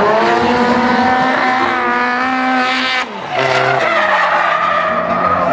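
Drift cars sliding at high revs, engines held near the top with tyres squealing. About three seconds in the engine note drops briefly off the throttle, then climbs again.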